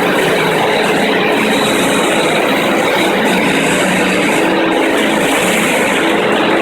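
FastPrep walk-behind concrete floor grinder running steadily, its electric motor driving 16-grit diamond grinding plates across a concrete floor: a constant motor hum under a dense grinding hiss.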